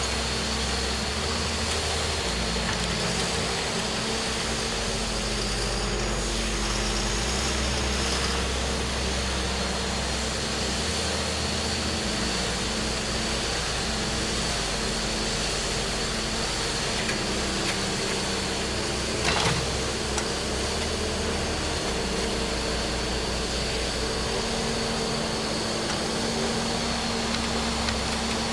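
Heavy machinery running steadily: an engine's constant noise with a steady high whine.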